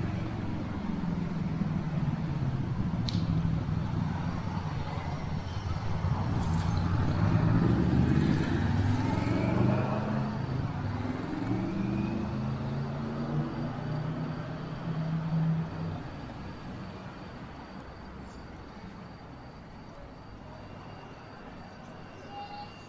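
Street traffic: a motor vehicle's engine runs close by, its pitch rising and falling as it moves off. It is loudest about a third of the way in and fades about two-thirds through, leaving a quieter traffic hum.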